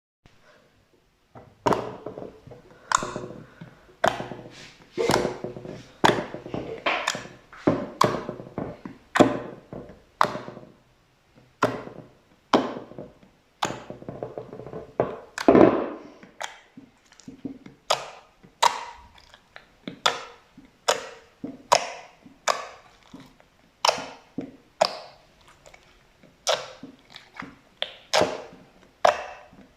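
Slime worked by hand, making a run of sharp pops and clicks, roughly one or two a second, beginning about a second and a half in.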